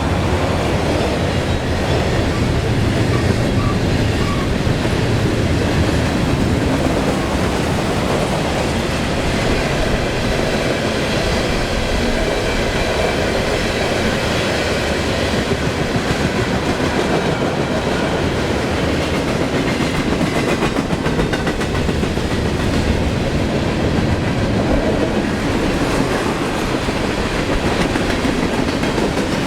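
A train rolling steadily through a railroad grade crossing, its cars making a continuous rumble and clatter on the rails.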